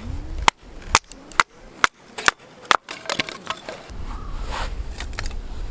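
Firewood being chopped or split: six sharp wooden knocks about half a second apart.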